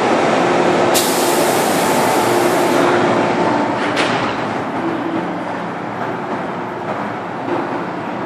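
MTR M-train metro train running through an underground station platform without stopping: a steady loud rumble of wheels on rail, with a high hiss from about a second in to about three seconds and a sharp click about four seconds in, easing slightly toward the end.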